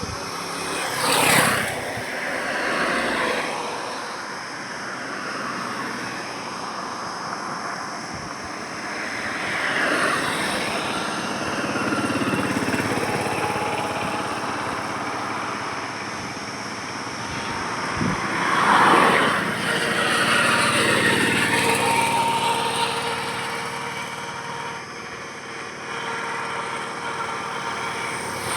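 Road traffic: a steady background of engines and tyre noise with vehicles passing one after another, each swelling and fading away. The loudest pass-bys come about a second in and around nineteen seconds in.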